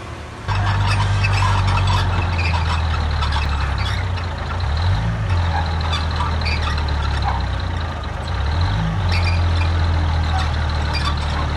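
Heavy diesel engine of earthmoving machinery running under load, starting abruptly about half a second in; its pitch sags and climbs back twice, with intermittent rattling and clanking over the engine.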